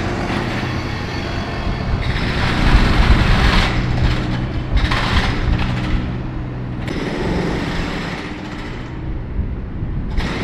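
Diesel bus engine running as a bus passes along a city street, with road noise. It is loudest about three seconds in, then eases off.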